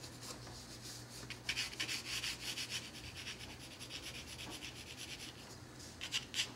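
Pencil sketching on paper: light, quick scratchy strokes in bursts, densest about a second and a half in and again near the end, over a faint steady low hum.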